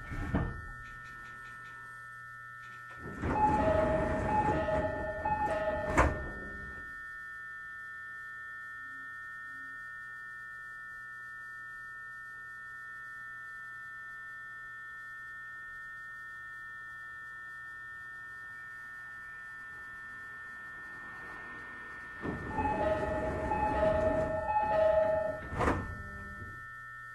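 Electric train doors opening and later closing, each time with a repeated two-note door chime over the rush of the door motion, ending in a solid thunk as the door panels meet or stop. Between the two, a steady electrical hum from the standing train.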